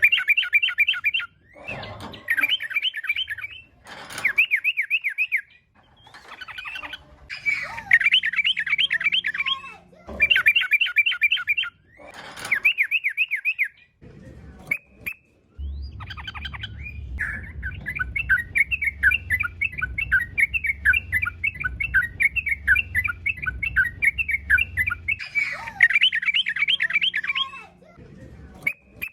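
Yellow-vented bulbul (trucukan) singing lively chattering phrases, rapid bubbly trills in short bursts with brief pauses, then one longer unbroken run of chatter about halfway through. This is the excited, aggressive song used to provoke other bulbuls into answering.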